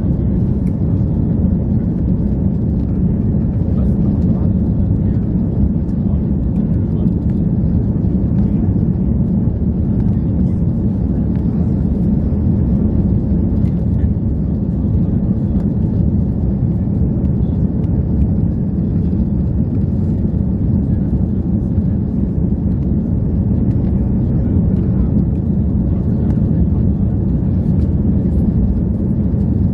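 Steady low rumble of an Airbus A340-300's four CFM56 turbofan engines.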